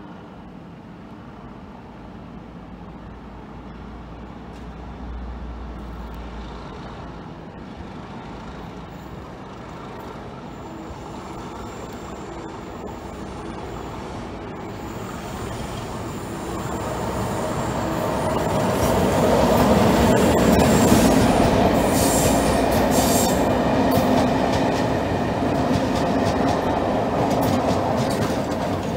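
Diesel-hauled test train with a Class 37 locomotive approaching along the line and passing close by, the noise of engine and wheels on rail growing steadily louder and peaking about two-thirds of the way through. A faint high-pitched wheel squeal sounds partway through the approach.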